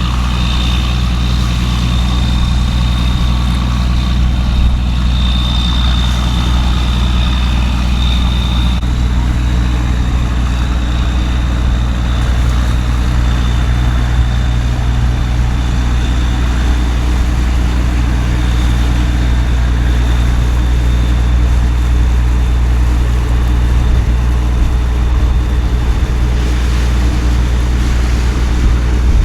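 A heavy engine idling steadily, a low even hum under a constant hiss. A thin high whine sounds through the first nine seconds or so, then weakens.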